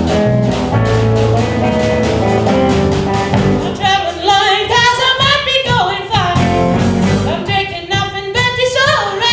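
Live band playing an instrumental passage with a steady drum beat. About four seconds in, female voices come in singing long notes with a wide vibrato over the band.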